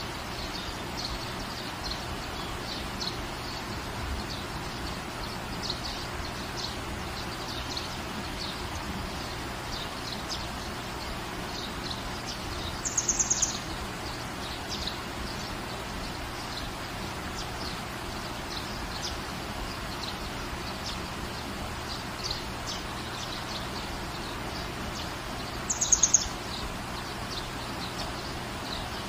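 Steady rain falling, with small birds chirping faintly throughout. Twice, about halfway and near the end, a louder short bird call of rapid high notes.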